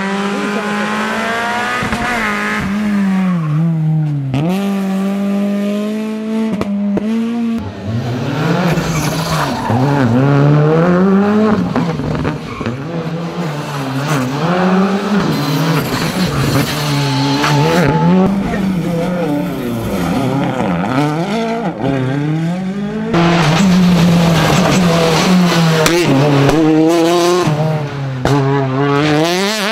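Rally car engines at full stage pace, revving high and falling back over and over with gear changes and braking, with tyres squealing through the corners.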